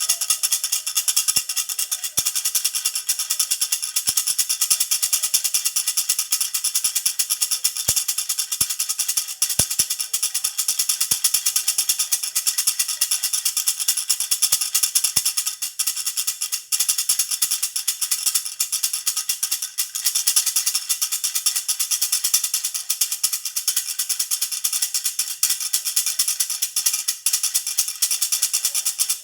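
Baby rattle (jhunjhuna) shaken rapidly without a break, a continuous bright jingling rattle.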